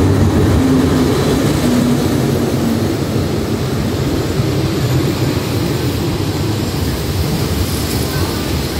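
Diesel locomotive and its carriages rolling past close by, with a steady low rumble of engine and wheels on the rails. The locomotive's engine note is heard in the first three seconds, and the rumble eases slightly toward the end.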